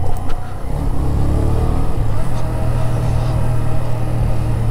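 Motorcycle engine running at a steady low note while riding.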